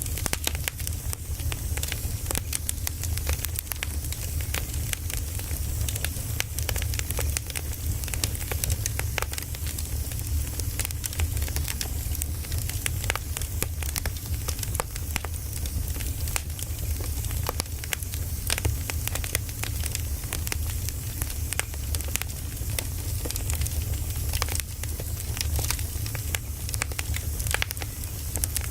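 Wood fire burning with dense, irregular crackles and pops over a steady low rumble of flame.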